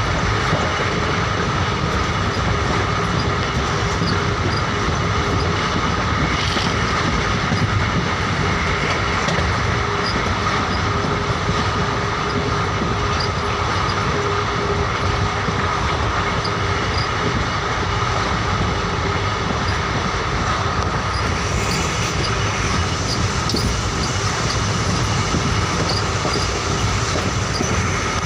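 Hassan–Solapur Superfast Express running along the line: a steady, even noise of wheels on the rails, with a faint high tone held through it.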